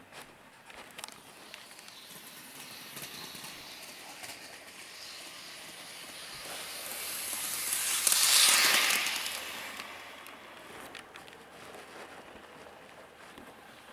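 A train running on its track, passing close by: the running noise swells to a peak about eight seconds in, then fades away.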